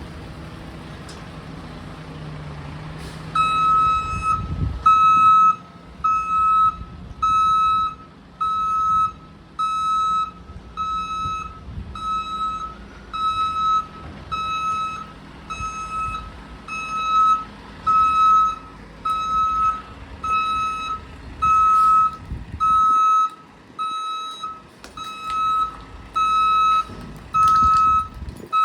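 Truck's backup alarm beeping steadily, a little more than once a second, starting about three seconds in, over the low running of the truck's diesel engine as a garbage truck reverses.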